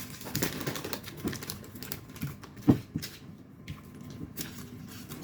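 Light scattered tapping and clicking of paper cupcake liners being handled and set out, with one louder knock about two and a half seconds in.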